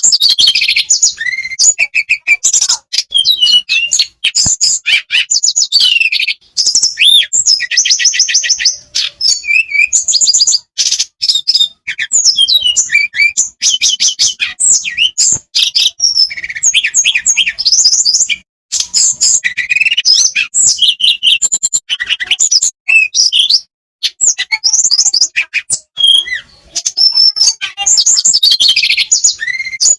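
Tledekan songbird singing a rapid, varied song of fast trills and chattering phrases with short pauses between them, the kind of song bird-keepers play to coax caged birds into singing.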